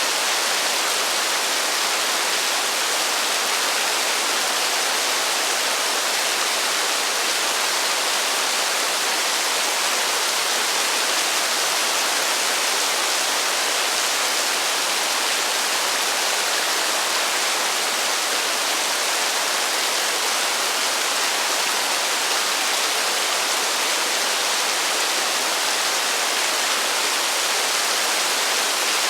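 Heavy rain falling steadily as an even, unbroken hiss, with no thunder and no single drops or gusts standing out.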